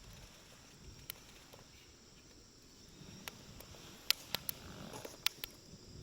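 Wood campfire burning with a low hush, broken by sharp crackles and pops, several in quick succession about four to five seconds in.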